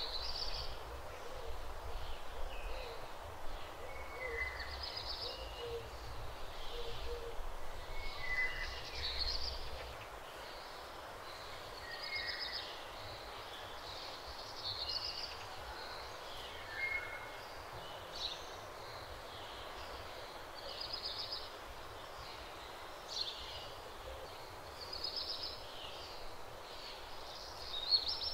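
Birds chirping and calling in short phrases every second or two over a steady outdoor background, with a low rumble during the first ten seconds that then stops.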